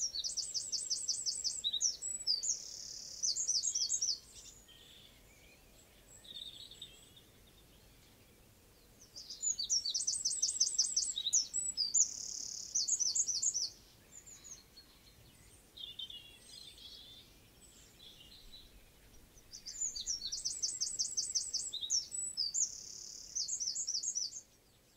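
A wren singing three times, about ten seconds apart. Each song is a fast run of high, rapid notes with a dense trill in the middle.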